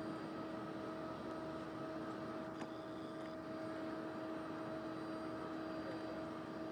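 Steady machine hum over a broad rushing noise, holding a constant pitch, with one short click about two and a half seconds in followed by a brief high tone.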